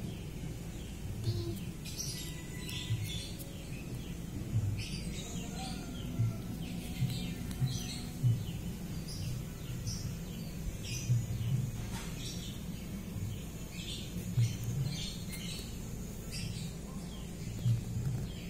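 Small birds chirping: many short, high chirps, scattered irregularly, with a few soft low bumps among them.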